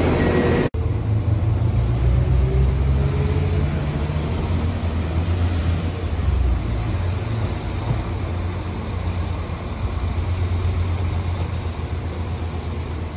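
Northern Class 195 diesel multiple unit pulling away from the platform, its engine running with a steady low rumble. A high whine rises for about five seconds and then falls away. A short break in the sound comes about a second in.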